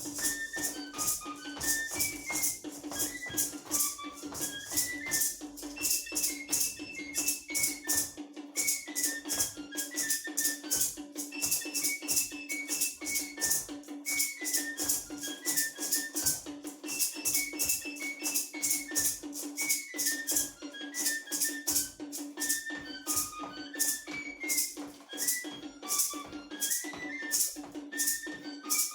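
Traditional dance music: a high, whistle-like flute plays a short stepping melody that repeats, over an even, fast shaking of rattles like maracas, with a steady low tone held underneath.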